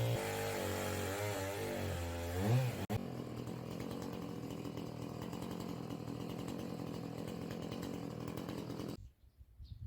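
Chainsaw engine revving up and down, then running at a steady pitch; it stops abruptly near the end, leaving a few faint bird chirps.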